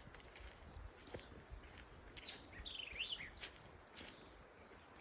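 Steady, high-pitched insect chorus, crickets by the sound of it, with a brief run of bird chirps about halfway through and a few faint clicks.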